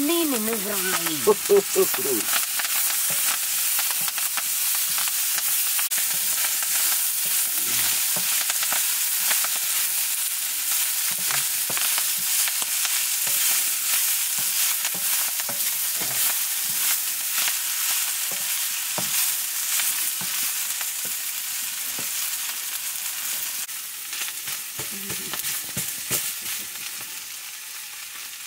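Leafy greens sizzling and frying in a hot iron wok over a wood fire, with a ladle stirring and scraping them around the pan. The sizzle eases a little near the end.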